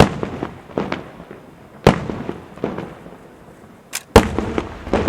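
Festa fireworks going off: sharp, loud bangs, with one at the start, one about two seconds in and a quick pair near the end, smaller reports in between, and each bang followed by a rolling echo.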